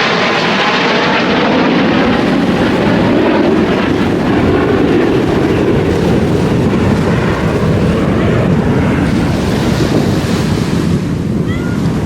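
Loud, steady rushing roar of a jet aircraft's engines just after it has flown past, mixed with wind on the microphone.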